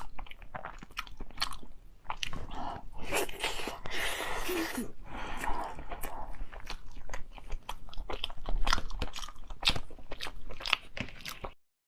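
A person chewing and biting food close to the microphone, with many sharp wet mouth clicks and smacks. There is a denser slurping or crunching stretch in the middle.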